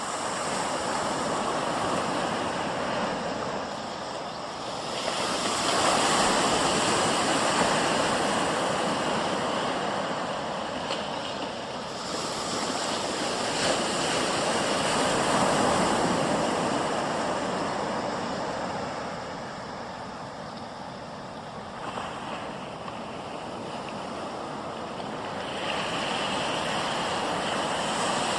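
Helicopter in flight: a continuous rushing of rotor and wind noise that swells and fades every several seconds, with a faint steady high turbine whine above it.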